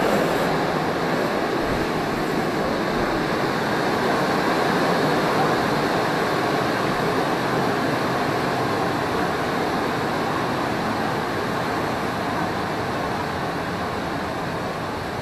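Passenger train carriage in motion: steady running noise of wheels on rails, heard from inside, easing slightly quieter toward the end.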